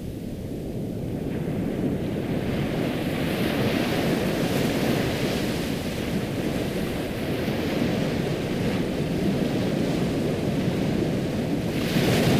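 Ocean waves washing in and drawing back in a steady rush that swells and eases, with one larger wave surging in near the end.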